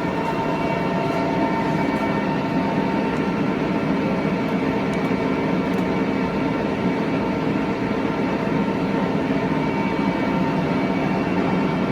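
Large Tru-Turn engine lathe running with its power cross slide traversing outward: a steady, even machine whine and gear-drive noise.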